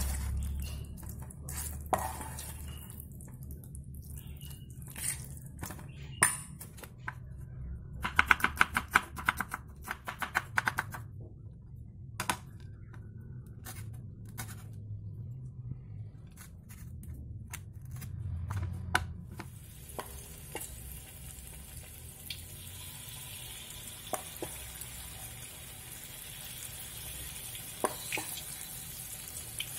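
A knife chopping on a wooden cutting board in a quick run of strokes. From about two-thirds in, corn fritter batter frying in shallow oil in a wok gives a steady sizzle.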